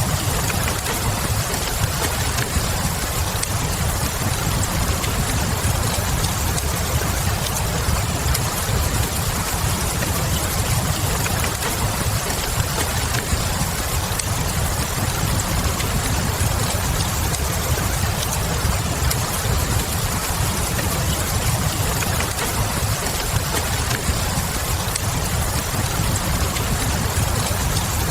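Steady rain ambience with a deep, even low rumble, and a wood fire crackling faintly now and then.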